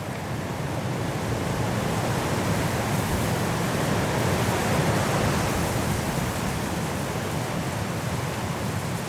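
High wind rushing through forest trees in a snowstorm, a steady roar that swells into a stronger gust in the middle and eases a little near the end.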